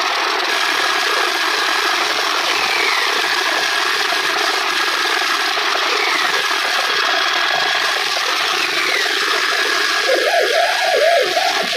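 Eerie steady droning noise presented as the sound of Saturn's moon Mimas, which its original uploader called fake. A faint high tone holds over it and a short falling whistle recurs about every three seconds; about ten seconds in, wavering warbling tones rise and become the loudest part.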